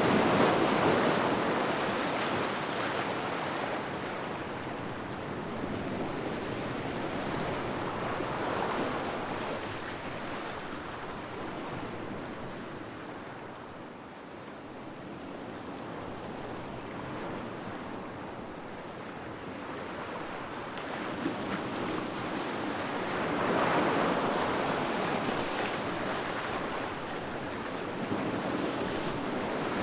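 Sea waves breaking and washing in, a steady surf that swells and fades in slow surges, loudest near the start and again a little past twenty seconds.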